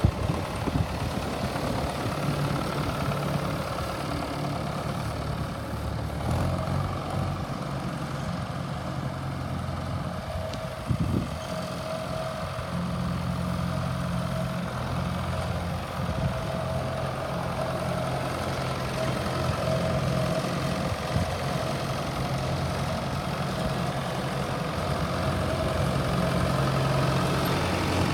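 1959 Ford 971 tractor's four-cylinder diesel engine idling steadily, its note shifting slightly about six seconds in.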